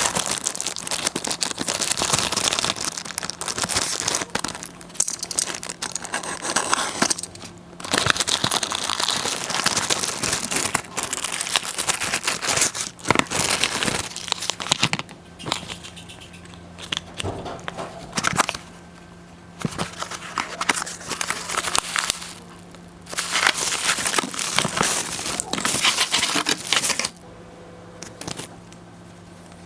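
Product packaging being unwrapped by hand: plastic wrapping crinkling and tearing in repeated bursts a few seconds long, over a steady low hum.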